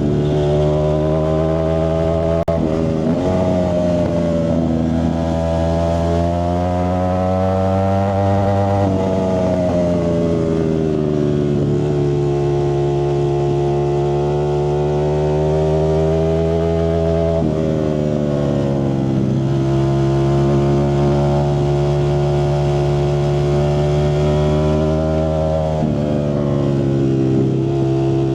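Ducati Streetfighter V4S's 1103 cc V4 engine running through a Zard exhaust, loud and steady. The engine note climbs slowly for several seconds, then drops back sharply, three times over.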